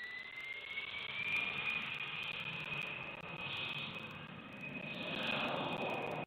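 Jet airliner engines running with a high whine that rises over the first second and then holds steady, over a broad rushing noise that swells twice.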